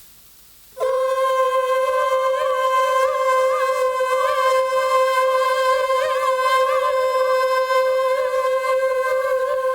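A tape choir sound playing one long held vocal-like note with a slight wavering, starting about a second in.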